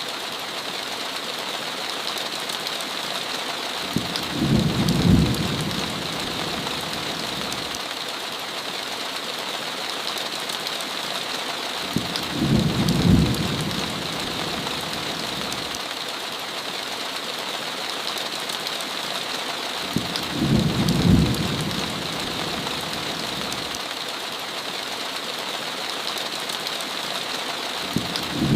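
Steady heavy rain hissing, with a low rumble of thunder about every eight seconds, four times, each lasting a second or two.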